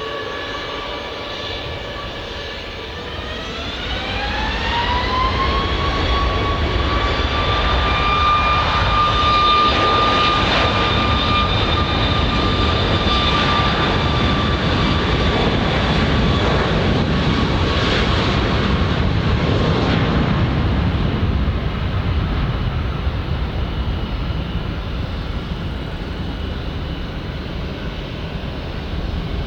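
Boeing 737 MAX 8-200's CFM LEAP-1B turbofans spooling up to takeoff thrust about three seconds in, a whine rising in pitch, then running loud and steady through the takeoff roll. The sound slowly fades from about twenty seconds in as the jet moves away.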